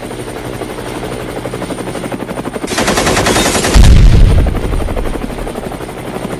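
Military helicopter's rotor chopping steadily, then a burst of rapid machine-gun fire nearly three seconds in. It is followed at once by a loud, deep explosion, the loudest moment, which dies away slowly while the rotor keeps chopping.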